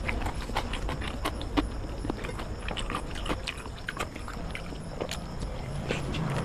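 Close-miked eating sounds of someone eating biryani by hand: chewing and wet lip-smacking clicks, irregular, several a second.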